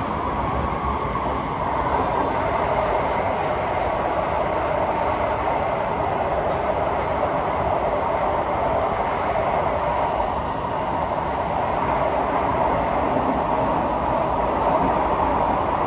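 SMRT C151A metro train (Kawasaki / CSR Qingdao Sifang) running between stations, heard from inside the carriage: a steady rumble of wheels on rail with a band of hum.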